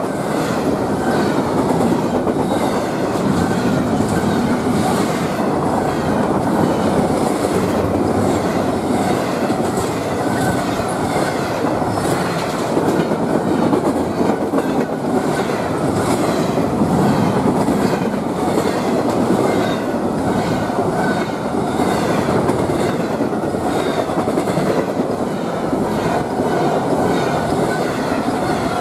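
Empty intermodal well cars of a freight train rolling past close by: a steady, loud rumble and rattle with a continual run of wheel clicks.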